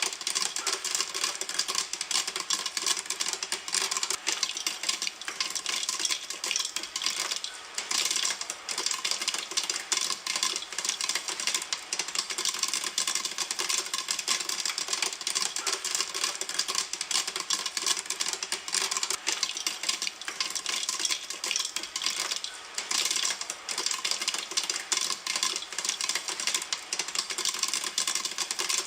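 Popcorn kernels popping in a pan, a dense, unbroken patter of many small sharp pops.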